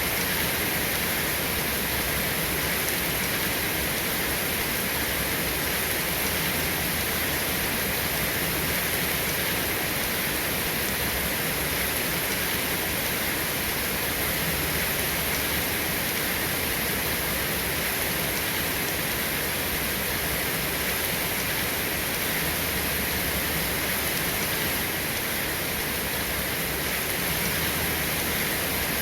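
Steady rain falling: an even, unbroken hiss with no thunder claps.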